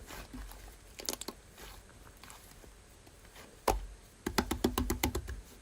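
Slime being squeezed and pressed, giving off crunchy crackling clicks. The clicks come singly at first, then in a dense run near the end.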